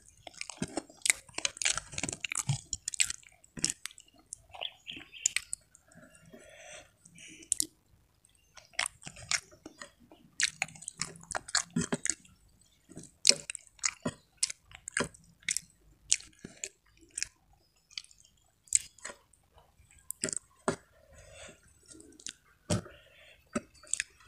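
Close-up chewing of food eaten by hand: many short mouth clicks at irregular intervals, with soft noises between them.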